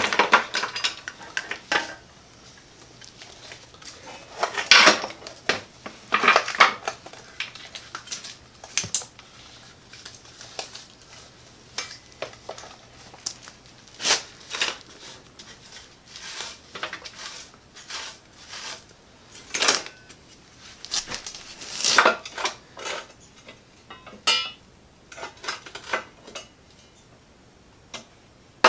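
Irregular clinks, clanks and knocks of metal tools and parts being handled, moved and set down, with a few louder knocks among lighter clatter.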